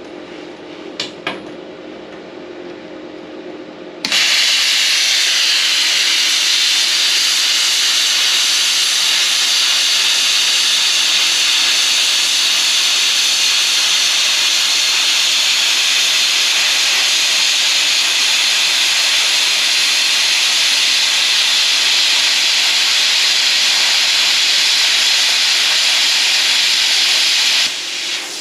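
Plasma cutter cutting steel plate: a loud, steady hiss that starts suddenly about four seconds in and stops abruptly near the end.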